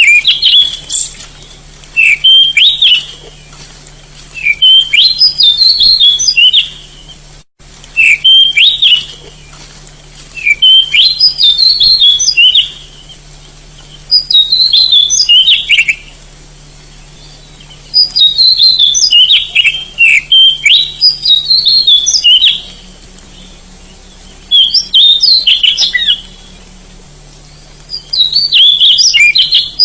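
Oriental magpie-robin (kacer) singing loud, fast whistled song phrases, about ten of them, each a second or two long with short pauses between.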